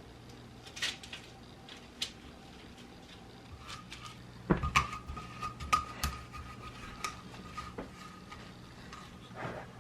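Kitchen utensil clatter: scattered clicks and knocks of a spoon against dishes, the loudest strikes about halfway through, one of them leaving a ringing tone, over a faint steady hum.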